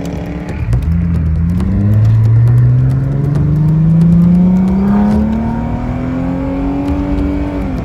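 A car engine accelerating hard, its pitch climbing steadily for about five seconds before falling away near the end.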